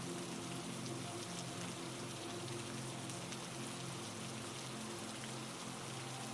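Heavy rain falling steadily as an even hiss of many drops, with faint low steady tones held underneath.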